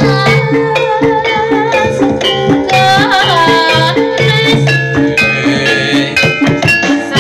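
Javanese ebeg (kuda lumping) ensemble music: drums and struck metallophones play a steady, repeating pattern. A melody line with vibrato comes and goes over it.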